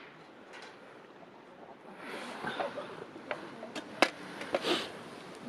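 Wood campfire crackling, with scattered sharp pops that grow busier about two seconds in and a loud pop about four seconds in.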